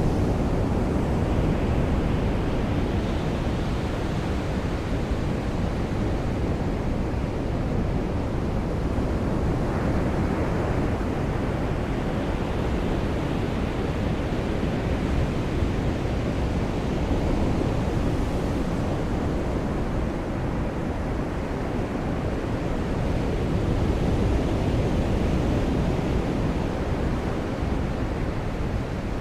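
Ocean waves washing onto a beach with steady rain, a continuous rush that swells and eases every several seconds.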